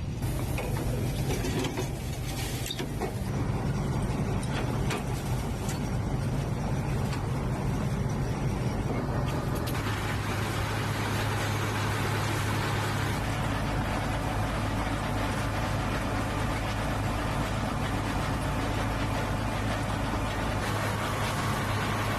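Ka-52 attack helicopter's twin turboshaft engines and coaxial rotors running, a steady low drone. About ten seconds in, a brighter hiss joins and the sound grows fuller.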